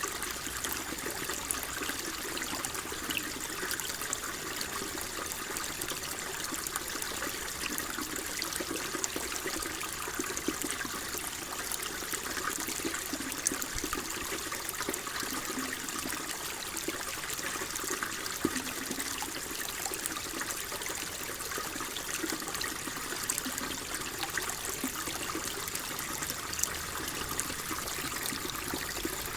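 Water flowing steadily with a constant trickling wash, even and unbroken throughout.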